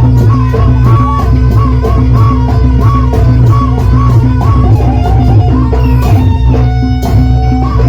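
Loud Javanese jaranan dance music: a steady drum beat under sustained low tones and a repeating, wavering melody line.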